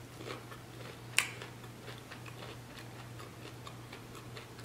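Chewing a crisp fried chicken samosa close to the microphone: faint crunching clicks throughout, with one sharp crack about a second in, over a steady low electrical hum.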